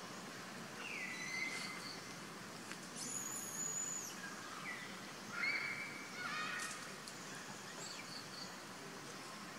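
Steady outdoor background hiss with several short bird calls: a clear whistle about a second in, a high thin note around three seconds, and a whistle followed by a quick rising trill around six seconds.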